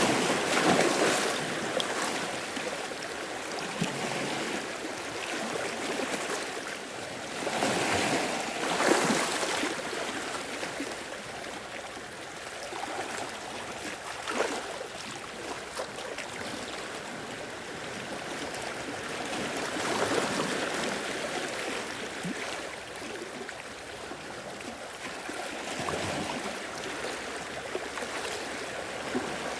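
Sea waves washing in and out, the wash swelling and fading every few seconds, with sharper surges about a second in, around eight to nine seconds in, and near the middle.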